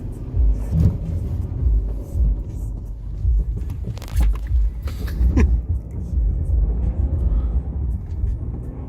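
Chrysler 300C's Hemi V8 exhaust rumbling and revving in repeated swells as the car is drifted on snow, with a brief rising-and-falling rev about halfway through.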